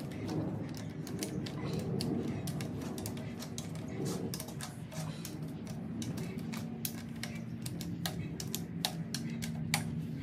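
Hand tools clicking and clinking against the parts of a Holden grey motor being stripped down: a run of irregular sharp clicks and light metal knocks.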